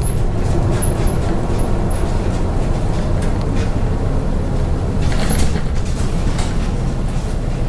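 MAZ 103.562 bus under way, heard from inside: steady engine and road rumble, with scattered light rattles and clicks, a cluster of them about five seconds in.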